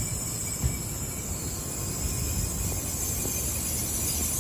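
N700 series Shinkansen train, set F3, rolling past on the track: a steady rumble of wheels and running gear, with a couple of low thumps in the first second.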